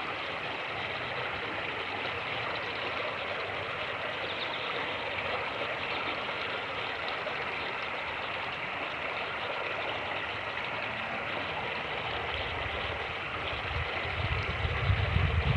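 Fast-moving creek rushing, a steady water noise. Near the end, wind starts buffeting the microphone with low, gusty thumps that grow louder.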